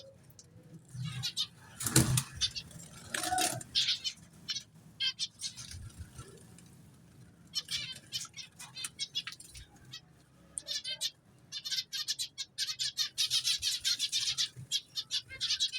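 Aviary zebra finches calling: many short, high chirping notes, coming in a fast, dense run over the last few seconds. A louder, noisy burst comes about two seconds in.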